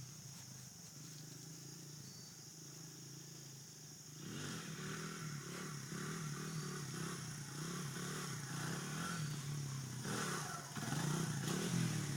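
Dirt bike engine running, faint at first and growing louder about four seconds in, its pitch rising and falling with the throttle.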